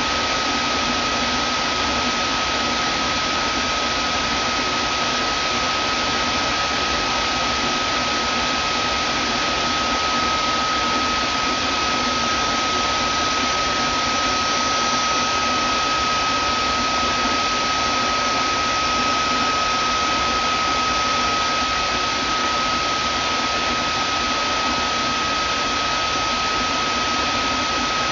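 Vacuum cleaner motor running steadily, a constant rushing of air with a steady high whine on top.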